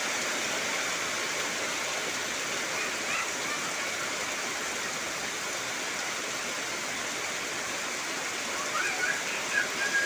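Heavy rain falling steadily, a dense, even hiss with no breaks. A few short, high chirps sound faintly over it about three seconds in and again near the end.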